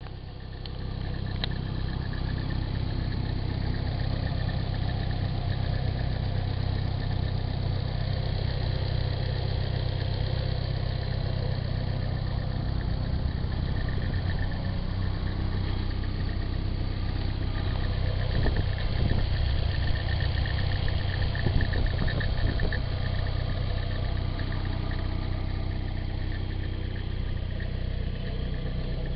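Nissan 240SX's KA24 2.4-litre four-cylinder idling steadily, with a rattle that the owner cannot place: the timing chain slapping its guide or a worn water pump, on a 160,000-mile engine. The noise grows a little louder and busier about two-thirds of the way through.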